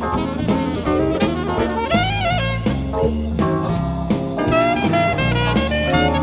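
Live jazz-funk band playing an instrumental tune, an alto saxophone carrying the melody over bass and drums.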